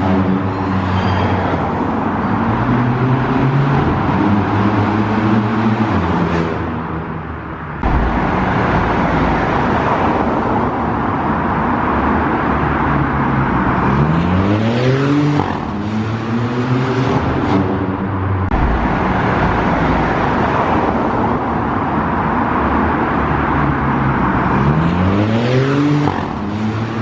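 Seat Ibiza FR's engine and exhaust running under load, its pitch rising twice as the car accelerates, about halfway through and again near the end.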